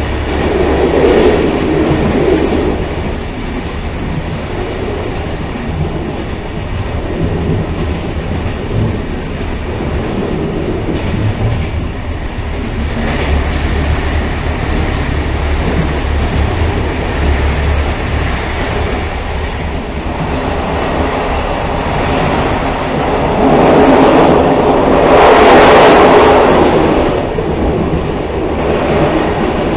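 Railcar running on the track with a steady low rumble. A louder swell of rushing noise comes about three-quarters of the way through and then eases off.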